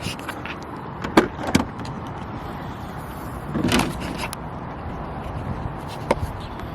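A few sharp knocks and clanks from things being handled and moved: two about a second in, a louder ringing one near the middle and one near the end. Low steady background noise runs under them.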